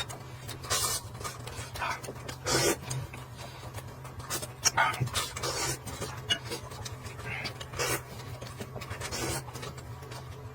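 Close-up eating noises: short, irregular mouth sounds of chewing and slurping, over a steady low hum.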